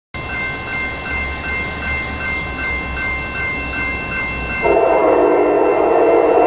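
Grade-crossing bell ringing steadily over a low rumble, then about two-thirds of the way through a locomotive's multi-chime air horn sounds loudly and holds.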